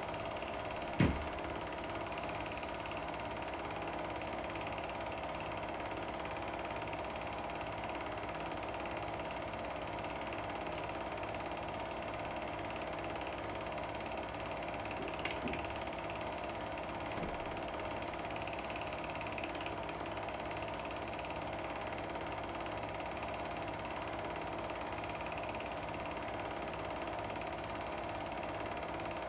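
Film projector running steadily, its motor and film mechanism giving an even mechanical clatter, with one knock about a second in.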